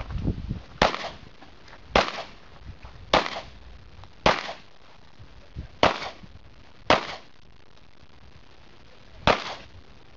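Pistol shots fired singly and evenly, seven in all about a second apart, with a longer pause before the last one.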